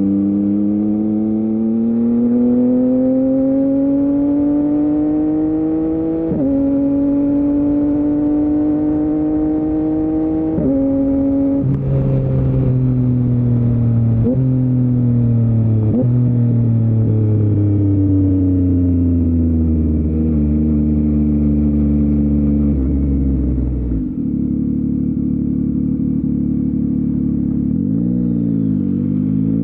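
Yamaha MT-09's 890 cc CP3 inline-three engine through an Akrapovic full-system exhaust, accelerating through two upshifts in the first ten seconds or so. It then slows with two quick throttle blips on downshifts, runs at a steady lower speed, and gives a short dip and rise near the end.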